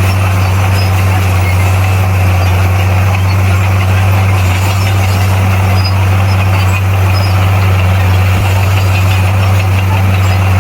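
Bulldozer's heavy diesel engine running loud and steady at constant revs, with a deep low drone.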